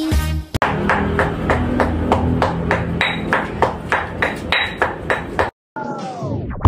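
Steady rhythmic knocking, about four strikes a second: kitchen noise of food being chopped or pounded. It stops abruptly, and a falling tone sweeps down near the end.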